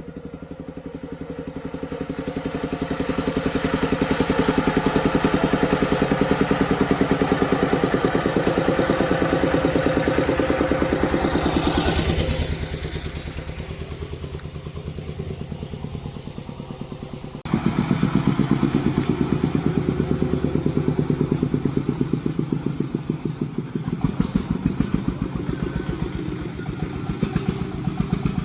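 Engine of an agricultural hauling vehicle running with a steady, rapid firing beat. It grows louder over the first few seconds, drops away about twelve seconds in, and comes back loud suddenly a few seconds later.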